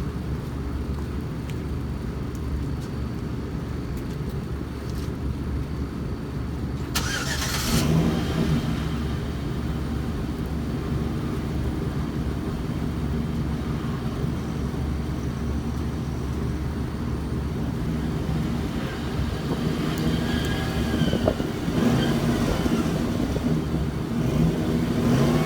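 A 5.3-litre V8 in a 2008 Chevrolet Trailblazer runs through a straight-piped exhaust from the cat-back, with the catalytic converters kept, giving a deep, steady rumble. About seven seconds in there is a brief rush of noise and the exhaust gets a little louder. In the last few seconds the pitch rises and falls as the engine is revved.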